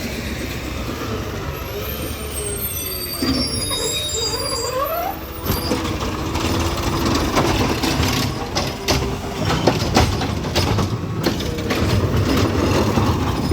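A garbage truck pulls up with its engine running. Its brakes squeal high-pitched a few seconds in, followed by repeated rattling and clanking from the truck.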